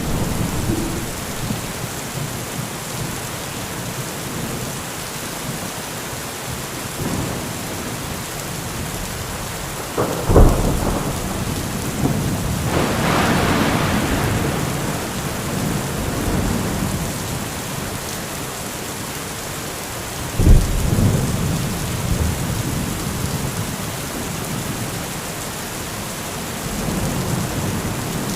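Heavy thunderstorm: steady rain with low rolling thunder, and two sharp thunderclaps, one about ten seconds in and another about twenty seconds in, each trailing off into rumbling.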